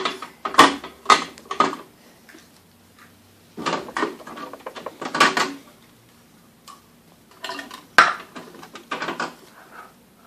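Hard objects clattering and clinking together in three bouts, with a sharp knock about half a second in and another near the end.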